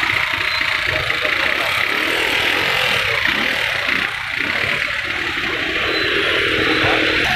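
Motor vehicle engines running on a flooded road over a steady hiss of water.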